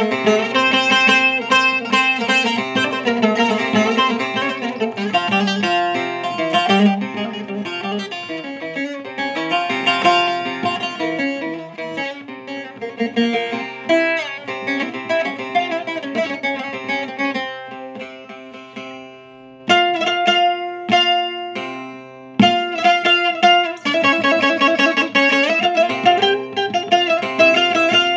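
Bağlama (saz) played solo in free rhythm: an improvised uzun hava passage of quick plucked runs over ringing drone strings. About two-thirds through it thins to a few sparse, hard single strokes, then the runs return.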